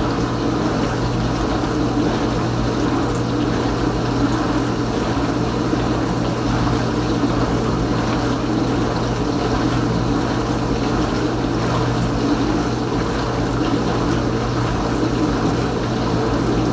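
Kenmore Ultra Wash dishwasher's pump running steadily, spraying water around the tub mid-cycle, with a constant motor hum under the rush of water.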